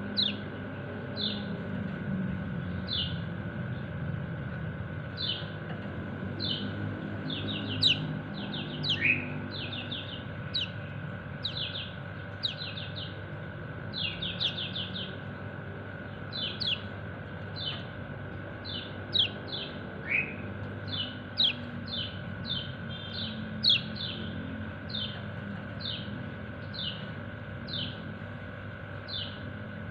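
Kecial kuning white-eye giving its 'ciak ciak' contact calls to its companions: short, high chirps that sweep down in pitch, one every second or so and sometimes in quick runs of three or four. Twice a lower, rising note breaks in. A steady hum runs underneath.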